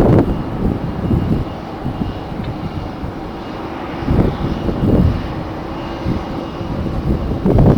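Jet airliner engines running steadily, with strong gusts of wind buffeting the microphone a few times.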